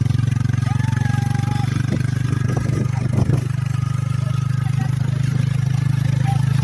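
500cc ATV quad bike engine running steadily at an even pitch, with a few clattering knocks about two and a half to three seconds in.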